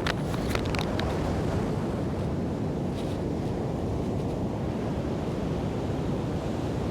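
Steady rushing noise of sea surf, with wind buffeting the microphone.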